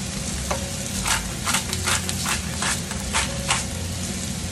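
Hand spice grinder being twisted over a frying pan: a run of about eight short crunchy grinding strokes, roughly three a second, over a steady background hiss.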